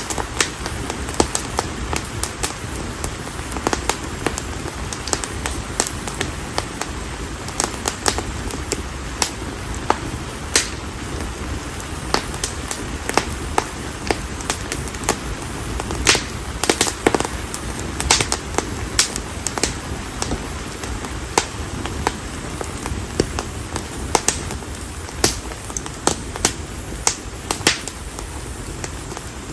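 Bonfire of split konara oak firewood burning: a steady low rush of flame under sharp, irregular crackles and pops, several a second.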